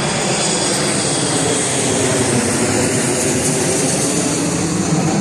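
A car engine running loud and steady, a continuous drone with no breaks.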